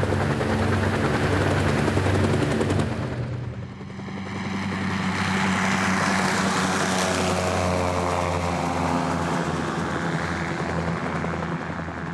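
Rotorcraft flying with a fast rotor chop over a steady engine drone. The sound dips briefly about four seconds in, then swells again, its pitch sliding down as the aircraft passes.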